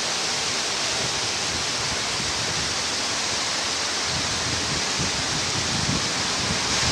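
Heavy rain falling, a steady, even hiss of a downpour.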